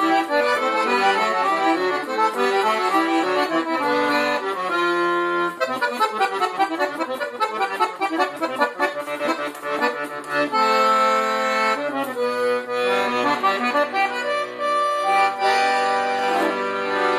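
Parrot 96-bass piano accordion played solo, with quick melodic runs over bass and chords, a long descending run in the middle and held chords toward the end.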